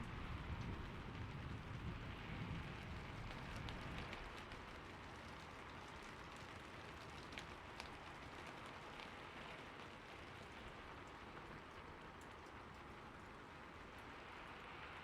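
Steady rain falling, with scattered individual drips ticking, and a low thunder rumble dying away in the first few seconds.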